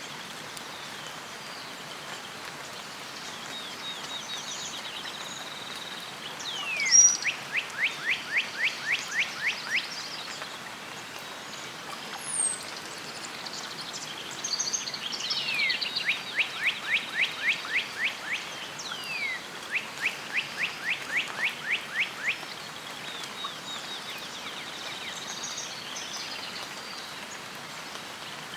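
Songbirds singing over a steady outdoor hiss: three phrases of rapid down-slurred notes, each a couple of seconds long, with fainter higher chirps above them.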